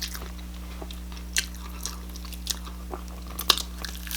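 Close-miked chewing and biting into crispy fried chicken, with a few sharp crunches standing out against softer mouth sounds, over a steady low electrical hum.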